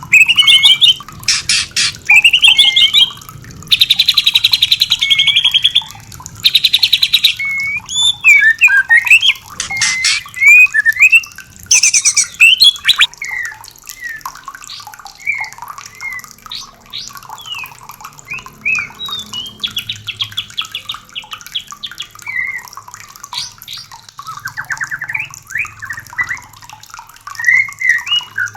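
White-rumped shamas calling: loud, rapid rattling trills alternating with swooping whistled song phrases, the rattles densest in the first eight seconds and giving way to softer, scattered chirps and whistles. A faint low rush of flowing water runs beneath.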